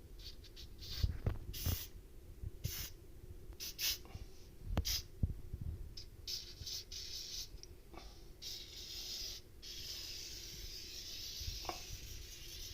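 Aerosol spray paint hissing in many short bursts, then a longer spray in the last few seconds, with a few light knocks between.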